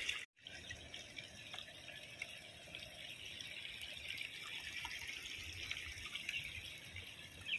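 Faint steady hiss of rain and flowing water, with a few soft drips.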